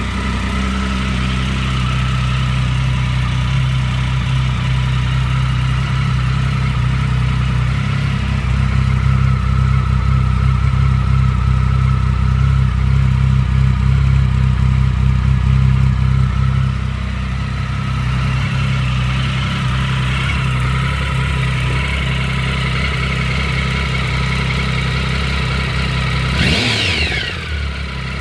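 2007 Triumph Speed Triple 1050's three-cylinder engine idling steadily, then revved up and let off near the end. This is the throttle test for a suspected engine knock that shows on deceleration.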